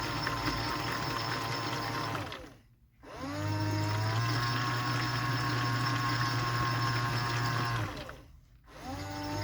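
Washing machine drum motor tumbling the load during the final rinse. It runs steadily, stops twice for a brief near-silent pause, and each time starts again with a rising whine as the drum picks up speed, the drum's back-and-forth wash action. Water sloshes in the drum.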